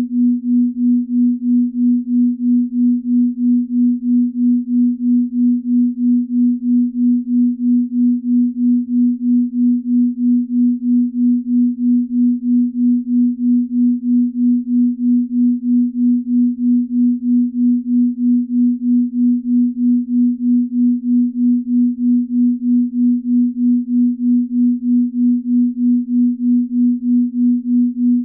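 Binaural beat: a steady pure sine tone near 250 Hz whose loudness pulses evenly about three times a second, the beating of two slightly detuned tones.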